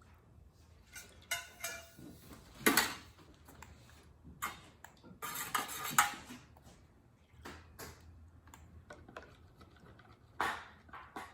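Metal clinks and clatter of candle-making utensils and small metal tins being handled, a scattering of knocks with louder ones about three and six seconds in and again near the end.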